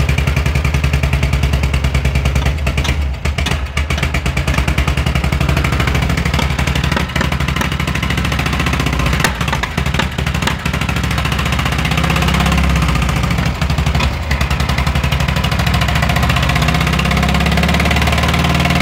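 VW Fusca (Beetle) air-cooled flat-four engine running, with an unexplained noise in the engine that the owner is asking about; the engine had sat unused for a long time. The level dips briefly a few seconds in and again around ten seconds in.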